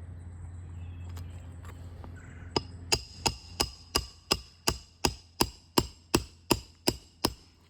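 Roofing hammer striking a roofing nail: about thirteen sharp, ringing metal-on-metal blows in a steady rhythm, roughly three a second, starting a couple of seconds in.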